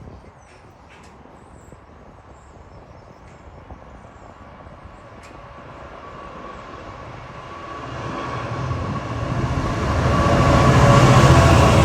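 An electric train approaching, its noise building steadily from faint to loud over about ten seconds, with a low hum and a steady whine, loudest near the end.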